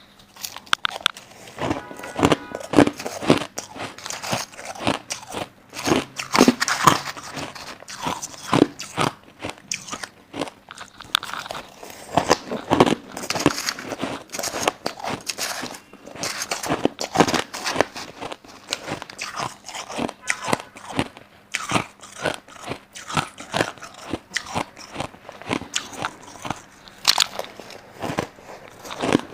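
Crushed white ice being bitten and chewed close to the microphone: dense, irregular crunching with many sharp cracks, fast and uneven.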